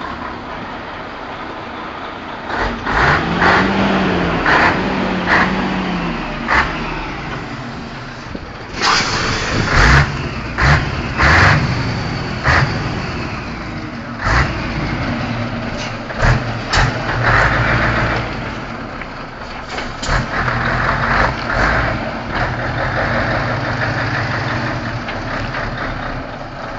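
Scania 143 M truck's V8 diesel engine running and being revved, its pitch rising and falling several times. The engine note is broken by several sharp, loud bursts.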